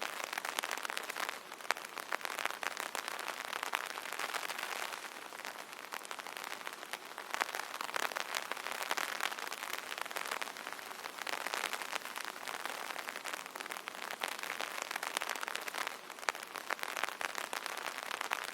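Rain pattering on an umbrella: a dense, steady patter of drops that swells and eases every few seconds, with a few louder single drops.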